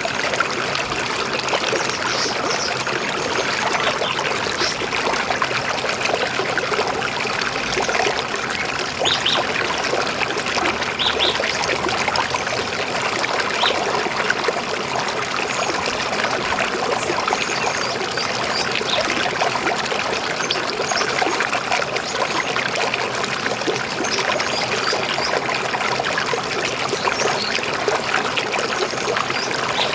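A river flowing in a steady, unbroken gurgle. A few faint, short bird chirps sound over it in the first half.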